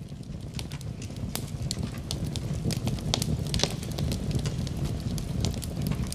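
Wood fire burning in a fireplace: a steady low rumble of flames with irregular sharp crackles and pops, swelling up over the first couple of seconds and then holding steady.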